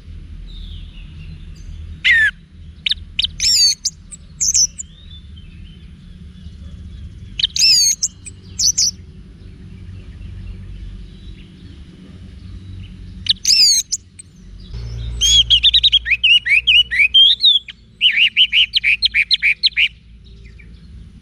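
Orange-headed thrush (anis merah) singing: loud, separate whistled phrases sweeping in pitch, with pauses between them. A denser warble follows, then near the end a fast run of repeated notes, about six a second. A low steady hum runs underneath.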